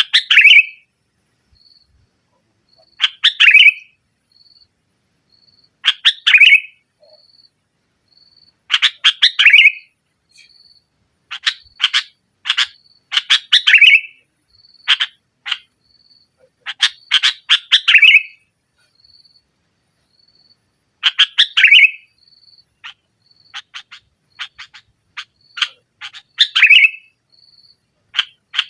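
Sooty-headed bulbul (kutilang) singing loudly in short chattering phrases about every three seconds, with quicker runs of notes in the middle. A faint high note repeats at an even pace behind it.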